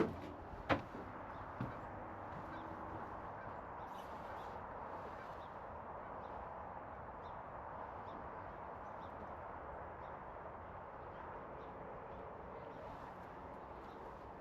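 Wetland ambience with distant waterfowl honking faintly now and then over a steady outdoor hiss, and small birds chirping high. A few sharp knocks sound in the first couple of seconds.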